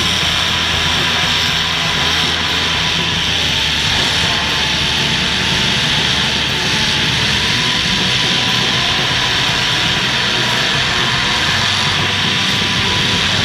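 Engines of full-size welded demolition derby cars running hard together: a loud, steady drone.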